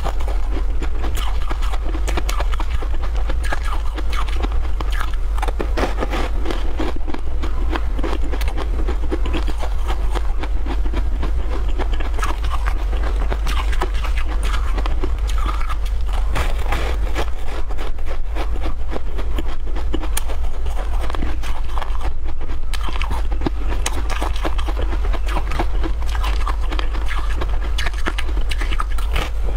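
Close-miked chewing and crunching of bitter-buckwheat snowflake crisp, a crumbly confection: dense, irregular crackly bites and chews throughout, over a steady low hum.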